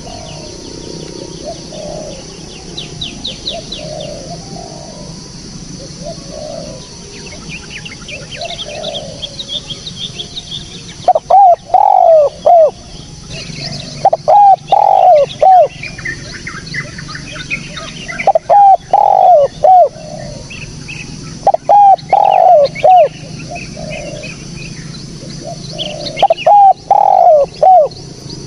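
Spotted doves cooing: fainter coos at first, then from about a third of the way in a loud dove repeats phrases of three or four coos every few seconds. Small birds chirp and trill faintly in the background.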